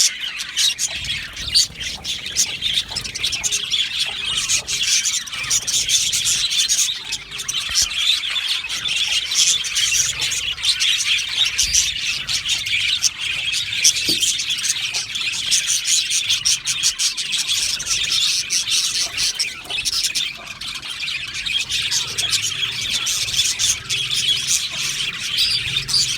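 A colony of budgerigars chattering, warbling and squawking together in an aviary: a dense, continuous mass of short chirps and calls.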